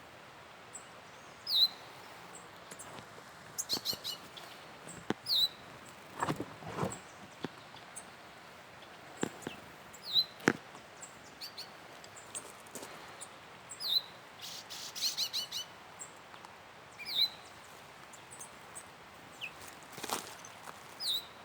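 Wild birds of the Atlantic Forest calling: a short, high, down-slurred call repeats every three or four seconds, with clusters of quick high chips between. A few sharp clicks cut through, the loudest about ten and twenty seconds in.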